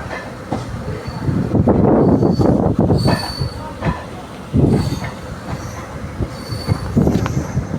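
Train running on rails: a loud rumbling clatter of the wheels that swells and eases several times, with scattered knocks and brief high squeals.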